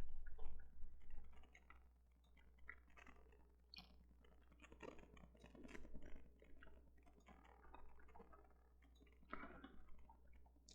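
Faint, irregular clicks of a computer mouse working software controls, over a low steady hum.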